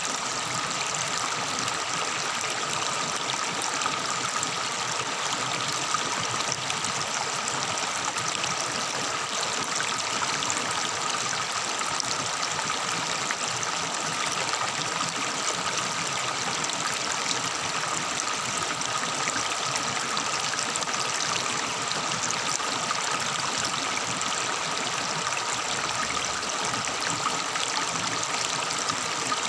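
Forest river water trickling and burbling steadily, with a thin high steady tone running underneath.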